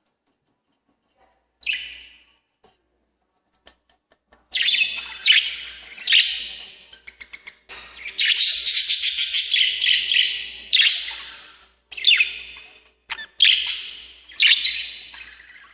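Lovebirds calling in high, harsh chattering calls. One short call comes first, then a few seconds in the calls turn into a dense, near-continuous run with short breaks.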